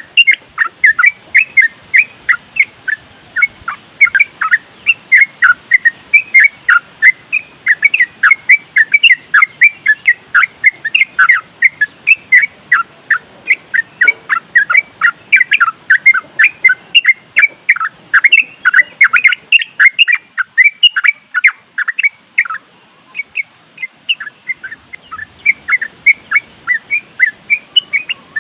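Yellow-vented bulbul (trucuk) singing a rapid, continuous chatter of short bubbling notes, several a second, in the run-on 'nropel' style. The song turns quieter for a moment about three quarters of the way through, then picks up again.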